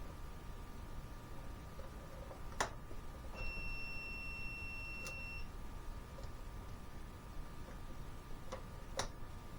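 A 2017 Jeep Cherokee engine idling steadily. A few sharp clicks sound over it, and a steady high beep lasts about two seconds, starting about three seconds in.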